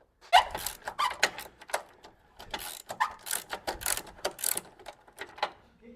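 Hand ratchet wrench clicking in short, irregular runs as bolts on a front lower suspension arm are worked loose.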